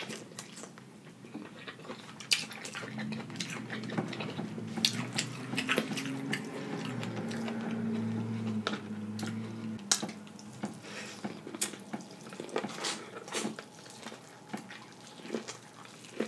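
Close-up wet biting and chewing of corn on the cob, many sharp kernel pops and lip smacks, with a low closed-mouth hum for several seconds in the middle.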